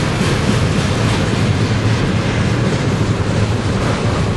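Freight train of tank cars rolling past at close range: steel wheels on the rails making a loud, steady noise.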